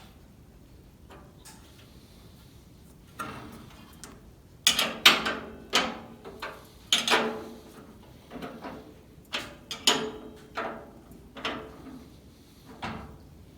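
Irregular metal clanks and knocks of parts and tools being handled while the motor is fitted to an old cast-iron Delta contractor table saw. About a dozen sharp strikes, each with a short ring, start about three seconds in.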